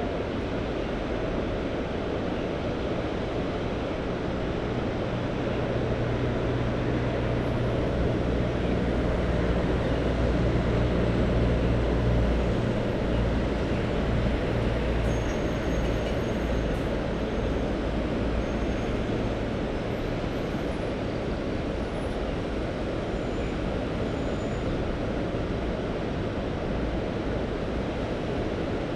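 Steady rushing of sea surf and wind, with a low engine hum swelling and fading in the middle as a motor passes.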